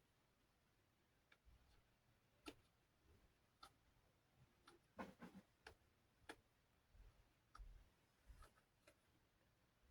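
Faint, irregular clicks and small taps from a plastic fan blade being handled and its frayed edges trimmed, about a dozen over several seconds, with quiet room tone between.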